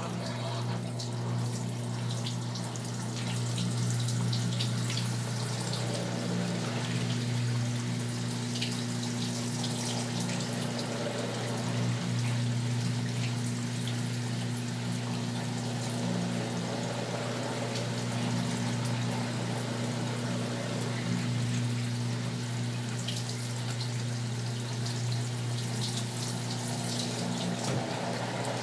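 Brastemp Tira Manchas Pro 12 kg top-load washing machine mid-cycle: water running and splashing in the tub over a steady low electrical hum.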